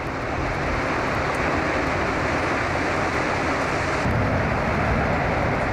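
Fast spring river current pouring over a waterfall: a steady, dense rush of water that fades in at the start and then holds even.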